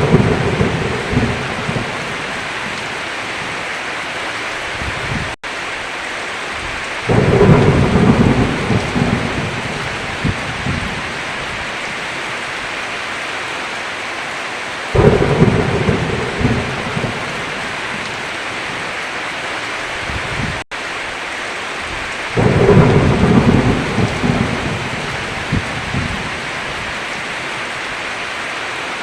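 Heavy rain falling steadily on a roof, with rumbles of thunder rolling in about every seven to eight seconds, four in all. Twice the whole sound cuts out for an instant.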